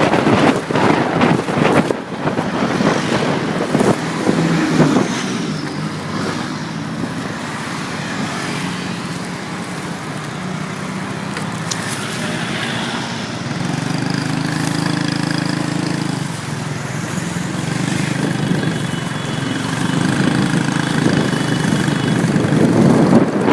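Motorcycle engine running on the road, with wind rushing over the microphone, gustiest in the first few seconds.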